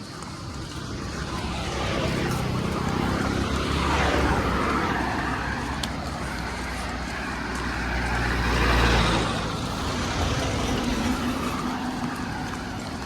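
Motor vehicles driving past with engine hum and tyre noise, swelling and fading twice, loudest about four seconds and about nine seconds in.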